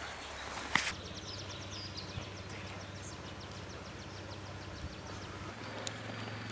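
A small bird singing a long trill of quick high notes, about six a second, for several seconds. Under it is a low steady hum, and a sharp click sounds about a second in.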